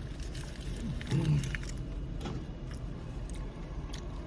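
Eating sounds: chewing with scattered small clicks and a brief hummed "mm" about a second in, over a steady low rumble.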